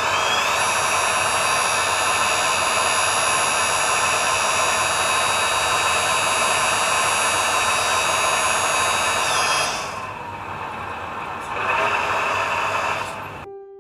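Electric hydraulic pump of an RC model truck's crane running with a steady, high whine, winding down and stopping about nine and a half seconds in, then running again briefly near the end.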